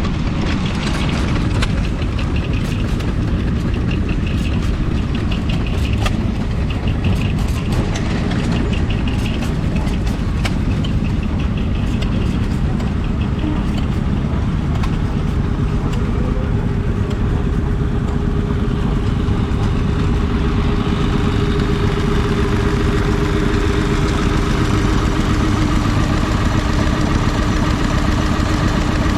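Stationary engine running steadily, with a busy clatter of sharp ticks through the first half and a steady tone rising out of the running sound in the second half.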